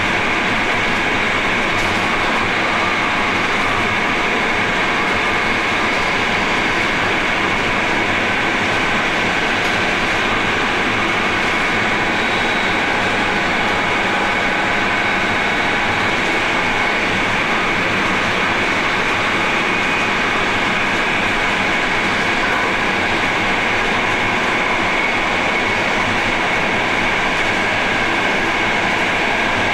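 Train running steadily at speed, a continuous noise of wheels on rail and running gear heard from the driver's cab.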